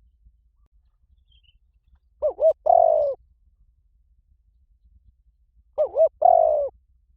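Spotted dove cooing: two phrases about three and a half seconds apart, each two short notes followed by a longer falling coo. This is the male's territorial call, played as a lure to draw in wild doves.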